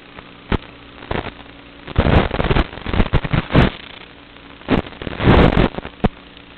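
FPV quadcopter motors spinning Kingkong 5040 three-blade propellers: a steady hum with short throttle blips, then loud rushing bursts of full throttle about two seconds in and again near five seconds, the punchouts.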